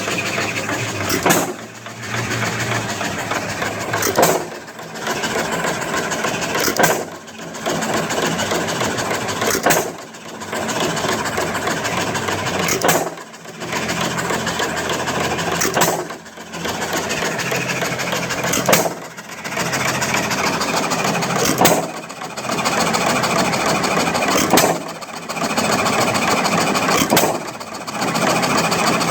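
John Deere 3 hp hit-and-miss stationary engine running with no load. It fires with a sharp bang about every three seconds and coasts between firings with a steady mechanical clatter, as the governor skips firings to hold its speed.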